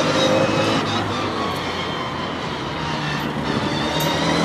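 Classic Mini's four-cylinder A-series engine driving a gymkhana course: the revs ease off just after the start, hold lower through the middle as it turns around a cone, then climb again near the end as it accelerates away.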